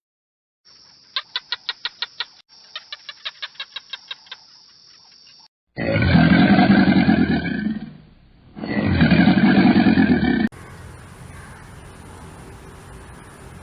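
Farm animal calls: a run of quick, evenly spaced pulsed calls for about five seconds, then two long, loud, harsh calls with a short gap between them, followed by a steady hiss with a thin high tone.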